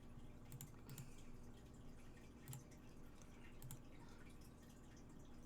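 Near silence: a few faint, irregularly spaced computer mouse clicks over a steady low electrical hum.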